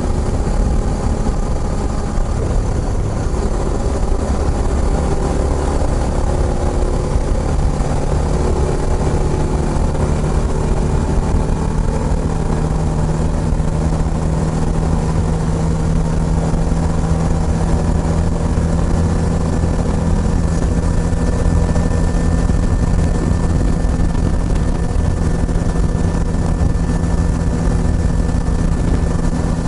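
Kawasaki Estrella's single-cylinder four-stroke engine running steadily through an aftermarket Yamato muffler while riding.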